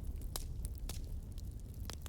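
Wood fire crackling: scattered sharp pops and snaps over a low, steady rumble of the burning.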